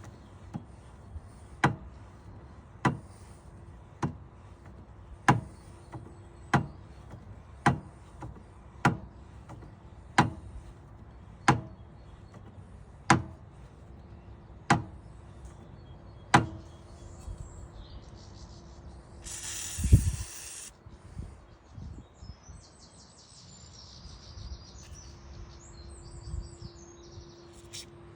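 Motorbike centre stand being worked on: about a dozen sharp knocks, evenly spaced at roughly one every second and a quarter, then a louder rough scraping burst about two-thirds through and some light clattering.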